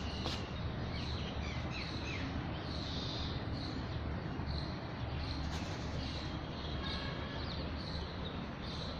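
Birds chirping faintly and repeatedly in the background over a steady outdoor noise with a low hum.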